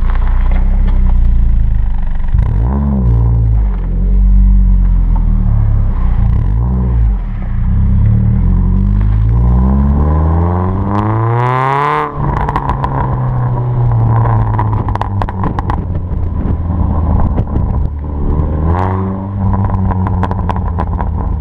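Ford Fiesta MK6 ST's four-cylinder engine through a decat manifold and non-resonated Milltek exhaust, blipped twice and then revved in one long rising sweep that cuts off sharply about twelve seconds in. After the cut the exhaust pops and crackles repeatedly, with one more short blip near the end.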